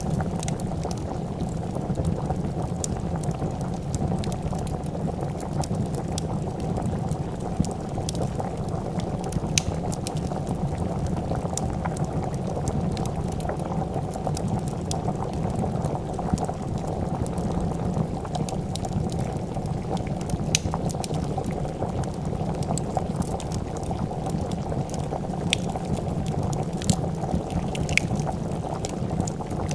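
A pot of soup bubbling at a steady rolling boil, with scattered sharp crackles and pops from a wood fire.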